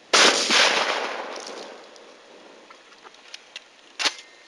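Shotgun shot at a thrown clay target: one loud report just after the start that rolls away over about two seconds. A second, shorter sharp crack comes about four seconds in.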